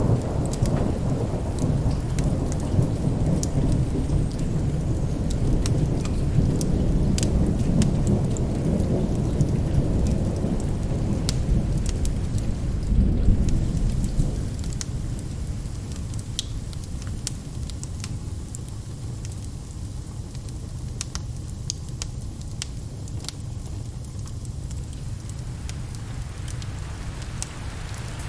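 Long rolling thunder over steady rain; the low rumble is loudest in the first half and dies away about halfway through, leaving the rain hiss. Sharp crackles and ticks are scattered throughout.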